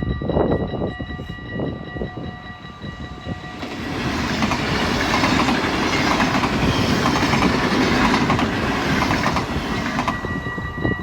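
A train passes over a level crossing: its rolling noise swells about three and a half seconds in and eases near the end. Steady ringing tones from the crossing's warning signal sound before and after the train and are drowned out while it passes.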